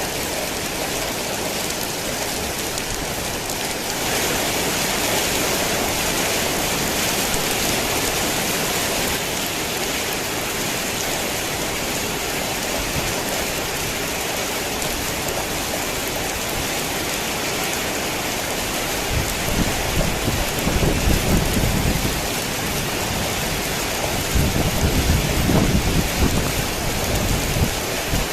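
Heavy rain falling steadily. Low rolls of thunder rumble in about two-thirds of the way through and again near the end.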